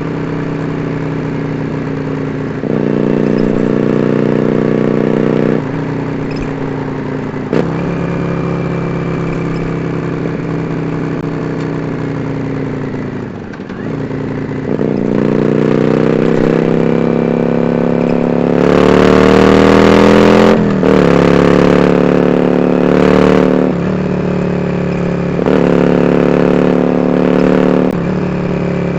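Yamaha Drag Star 400 Classic's V-twin engine through open-ended dual Supertrap mufflers, under way with the throttle opening and closing and short breaks in the note at gear changes. About halfway in the pitch climbs in one long pull, loudest about two-thirds through, then steps down again.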